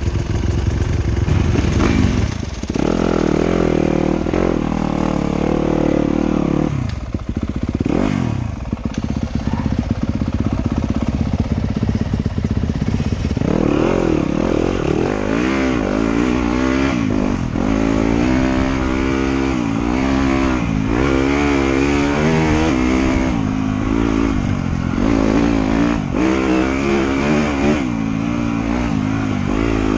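Off-road motorcycle engine revving up and down over and over as it rides a trail, its pitch repeatedly rising and falling with throttle and gear changes, with some clatter.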